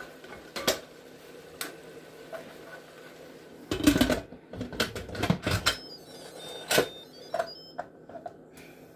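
Knocks and clatter from handling an Instant Pot electric pressure cooker, a cluster of them in the middle, followed by a few faint short beeps and clicks near the end.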